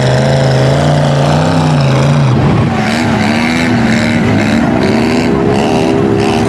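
Off-road truck engines revving hard: one engine's pitch climbs and cuts off about two seconds in, and another winds up in pitch near the end over a rough, crackling noise.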